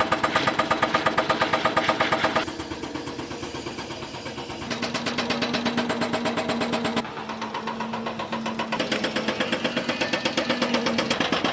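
An engine running steadily with a regular chug, about four beats a second; its level drops and rises abruptly several times.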